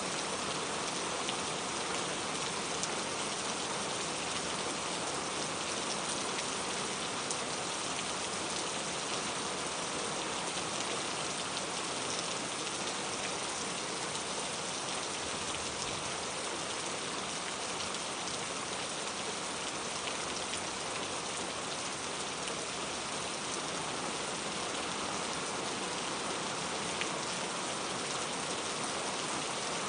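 Steady rain falling, an even hiss with scattered faint drop ticks on a surface.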